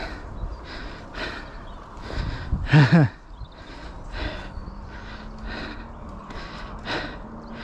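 A mountain biker panting hard and rhythmically, out of breath after a rough downhill run, with a loud groaning gasp about three seconds in.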